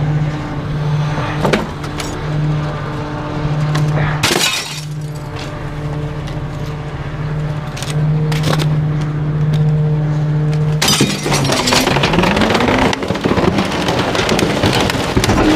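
Garbage truck packer compacting bulky waste: a steady drone from the truck's engine and hydraulics, with sharp cracks of items breaking, then from about eleven seconds in a louder, continuous crunching as the load is crushed.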